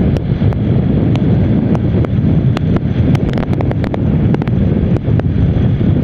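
Wind buffeting the microphone of a motorcycle riding at highway speed: a steady, heavy low rumble with many small sharp clicks scattered through it.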